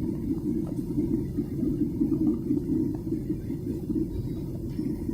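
Steady low drone inside an airliner cabin: engine and air noise, with no change in pitch or level.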